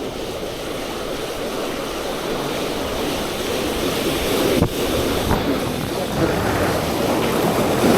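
Big waves breaking on the shore in strong wind, with the wind buffeting the microphone, growing a little louder partway through.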